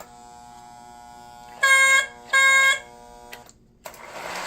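Lionel 2032 Erie FA-1 model diesel's battery-powered horn sounding two short, loud blasts over a steady electrical hum. Near the end the locomotive starts running on the track, a steady rumbling of motor and wheels.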